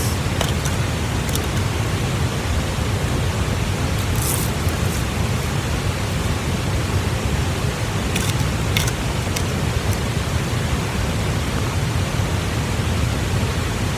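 Steady rushing of flowing water from a nearby stream. A few short crisp crunches come about four seconds in and again about eight seconds in, from biting into a freshly fried daylily tempura.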